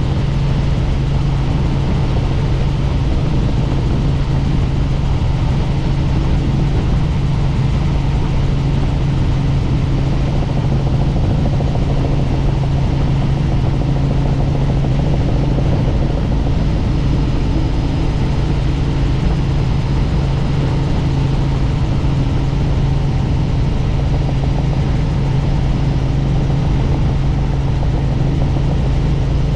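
Helicopter in flight: a steady, unchanging drone of engine and rotor.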